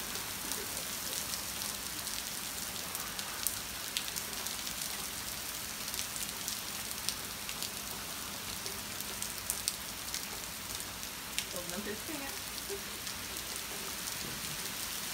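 Heavy hurricane rain pouring onto a flooded driveway, lawn and street: a steady dense hiss with scattered individual drops ticking sharply near the microphone.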